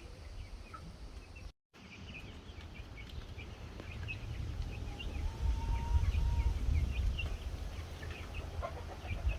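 Young chickens peeping, a steady scatter of many short high chirps, over a low rumble that grows louder around the middle. The sound drops out for an instant about a second and a half in.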